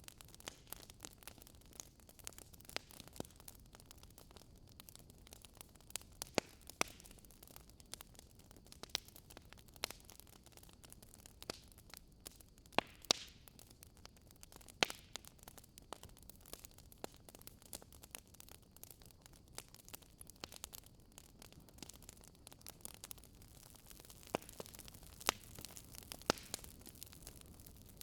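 Wood fire burning in a fireplace: irregular sharp crackles and pops from the logs, a few every couple of seconds, over a faint steady hiss.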